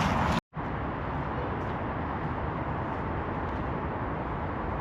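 Steady drone of motorway traffic, an even rushing noise with no distinct vehicles picked out, with a brief dropout about half a second in.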